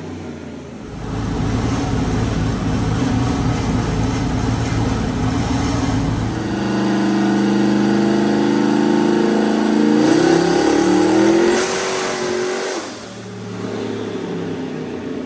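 Turbocharged 5.3-litre V8 on ethanol making a full-throttle pull on a chassis dyno. It comes up to load about a second in, the engine note changes about six and a half seconds in and climbs in pitch, then it lets off suddenly near the end and drops back to idle.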